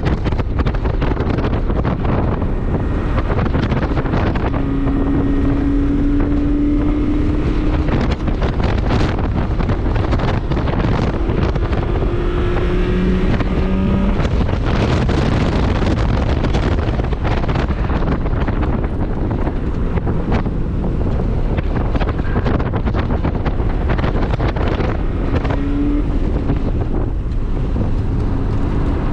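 Heavy wind buffeting on the microphone of a car at speed, mostly covering the 2001 Subaru 2.5RS's 2.5-litre flat-four engine. The engine's rising pitch shows through faintly a few times as it accelerates.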